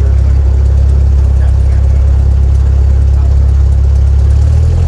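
Small propeller airplane's piston engine heard from inside the cockpit as a loud, steady drone. Its pitch shifts slightly near the end.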